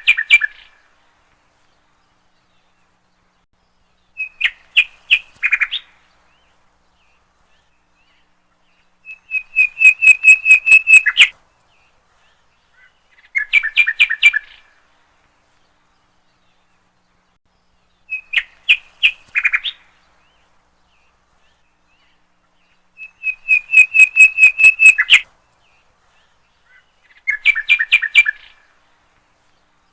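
Bird song in short bursts of rapid chirping notes, one phrase every four to five seconds with silence between. The same phrases come back in the same order, like a looped recording.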